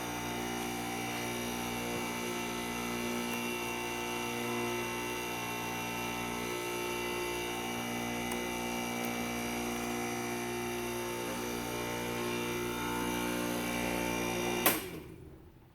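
Refrigerant vacuum pump running steadily while evacuating a car's air-conditioning system, switched off with a click near the end, after which its hum quickly dies away.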